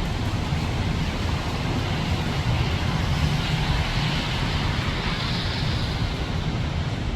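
Disneyland Railroad train running, a steady low rumble with a rushing hiss over it.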